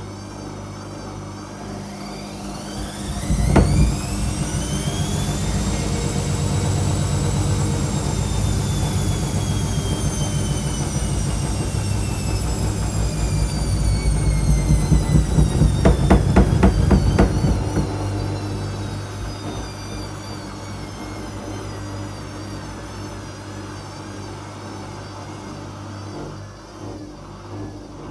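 Whirlpool washing machine in its pre-spin: the drum motor's whine rises over a few seconds, then slowly falls again, over a steady low hum. A knock comes early on as it speeds up, and a run of rhythmic thumps from the drum comes around the middle before it winds down.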